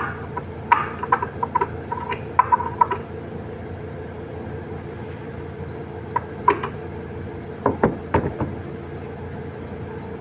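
A machine hums steadily, with light metallic clinks and taps in the first few seconds and a few sharper knocks about eight seconds in.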